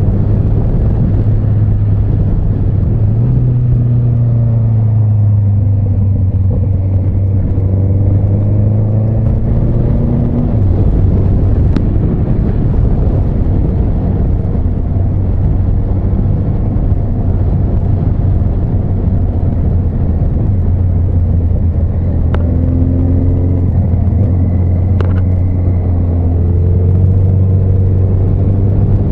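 Honda CB1300 Super Bol d'Or's inline-four engine running while riding. Its note climbs as the bike accelerates, falls back about ten seconds in, and climbs again in the last third, over a steady rush of wind and road noise.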